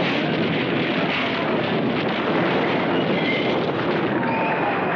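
Loud, steady roaring rumble of an earthquake shaking the ground, with no break or change.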